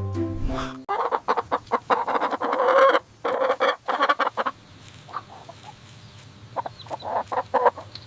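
Hens clucking in a quick run of short calls, fainter and sparser after about four and a half seconds. A short jingle ends about a second in.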